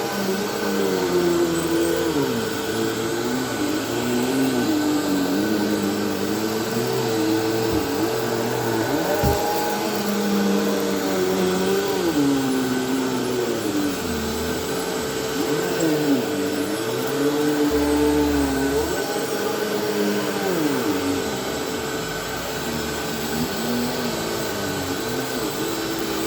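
Bissell Powerforce Helix Turbo Rewind upright vacuum cleaner running steadily as it is pushed across the floor. Over its even motor whine, a group of tones rises and falls every couple of seconds. The owner suspects the machine needs lubricating because plastic is rubbing inside it.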